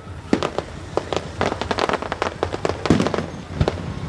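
Fireworks going off: a rapid, irregular run of sharp bangs and crackles, with a louder, deeper boom about three seconds in.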